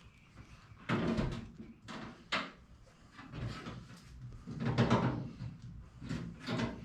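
Clunks, knocks and scraping of sheet-metal furnace parts being handled and worked into place, with a sharp knock a little over two seconds in.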